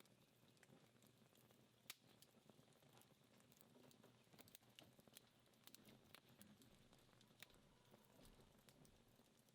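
Faint, irregular crackles and small pops from a wood fire that is dying down to embers, with one sharper pop about two seconds in.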